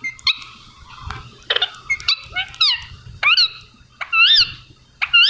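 Ringneck parrot giving a series of short squawking calls, each one rising and falling in pitch. The calls come irregularly at first, then settle to about one a second and get louder toward the end.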